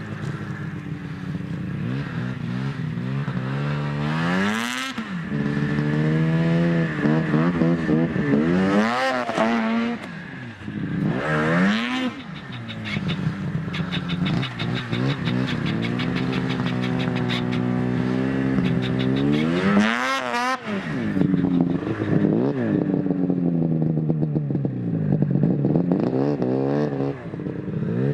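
Snowmobile engine under way, its pitch rising and falling again and again as the throttle is opened and eased off, with a steadier stretch of cruising in the middle.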